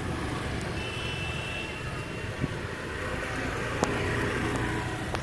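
Steady street traffic noise from passing road vehicles, with a faint high tone about a second in and a sharp click a little before four seconds.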